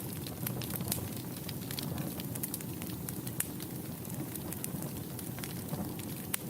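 Wood fire burning in a fireplace, with a steady low rumble of flames and many small, irregular pops and crackles.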